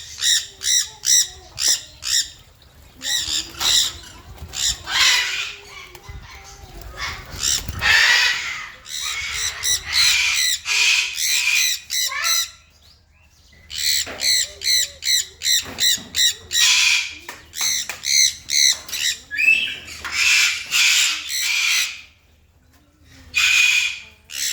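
Ringneck parrots squawking: runs of rapid short harsh calls, about four a second, alternating with longer screeches, broken by two brief pauses.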